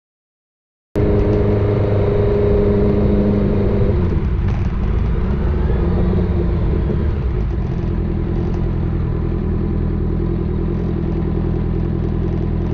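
Honda CBR650R's inline-four engine idling through an aftermarket full exhaust, cutting in abruptly about a second in and running steadily.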